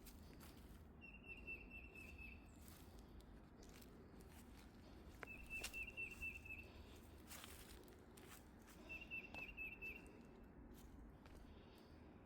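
A songbird singing a short run of about six quick repeated notes, three times about four seconds apart, over faint footsteps on a trail.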